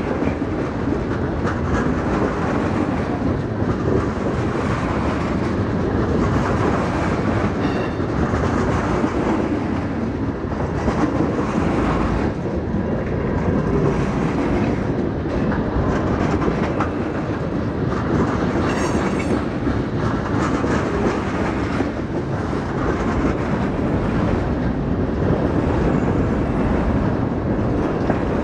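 Freight train cars rolling past, steel wheels rumbling and clicking over the rail joints in a steady stream.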